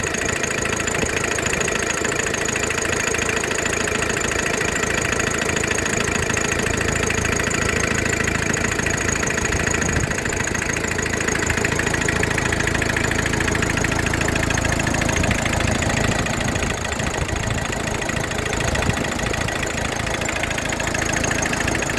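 Renault 1.9 engine idling steadily.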